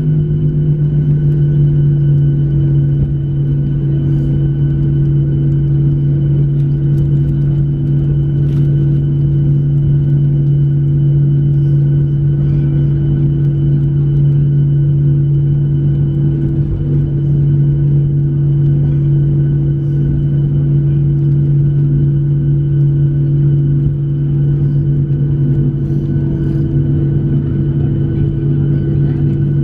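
Boeing 737-700 cabin drone after landing, with its CFM56-7B engines at idle. It is a steady low hum with a higher steady tone above it over a rumble, unchanging throughout.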